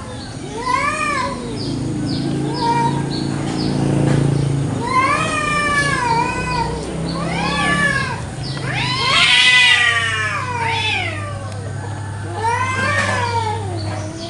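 Domestic village cats caterwauling in a territorial standoff: long yowls that rise and fall in pitch, one after another and sometimes overlapping, with a low drawn-out growl in the first few seconds and the loudest, harshest yowl near the middle.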